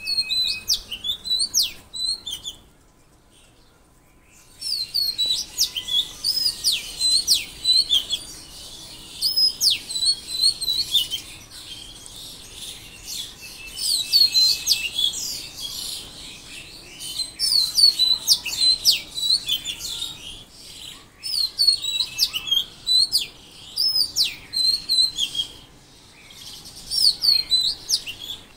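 Songbirds singing in quick, repeated chirping phrases, one burst after another, with a short lull a few seconds in.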